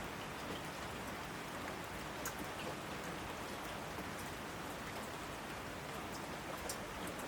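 Steady rain, with scattered drops ticking sharply on a surface.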